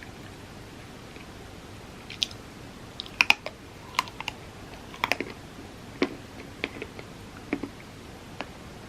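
Close-miked eating: a run of sharp, irregular crisp clicks and crunches that starts about two seconds in and thins out near the end.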